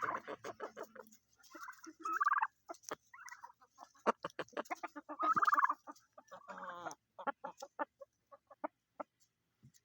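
Turkeys gobbling: several rattling gobbles, the loudest about two and five seconds in, with quick runs of short clucking notes between them that thin out near the end.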